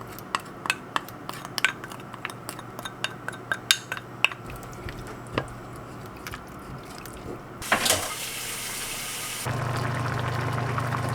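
Kitchen cooking sounds while making soy-braised potatoes. First comes a quick run of light clicks and taps of utensils against cookware and dishes. Near the end there are about two seconds of rushing liquid noise, then a steady hiss with a low hum.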